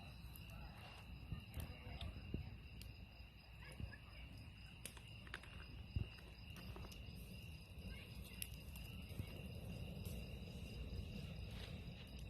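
Crickets trilling in steady high tones, with scattered sharp pops and cracks from a campfire, the loudest about halfway through.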